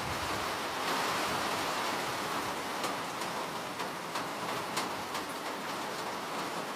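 Steady rain falling, with scattered individual drops ticking sharply on a surface now and then.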